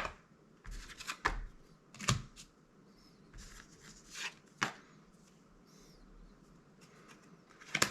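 Magic: The Gathering cards being handled and flipped through, giving irregular sharp clicks and soft slides of card stock, several in a few seconds.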